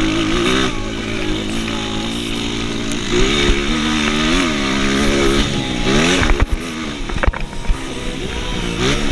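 Motocross bike engine running and revving, its pitch rising and falling several times, with a few sharp clicks in the second half.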